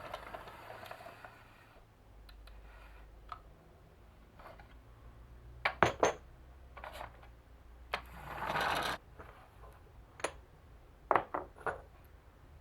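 Marbles rolling and clacking along a marble run: scattered sharp clicks, with loud clusters of clacks about six and eleven seconds in and a rolling rush lasting about a second near eight seconds.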